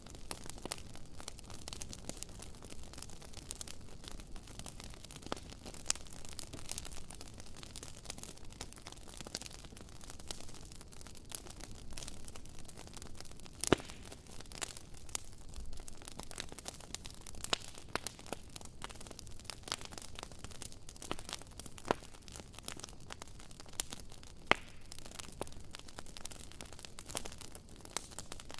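Wood fire crackling: irregular sharp snaps and pops over a faint hiss, with one louder pop about fourteen seconds in.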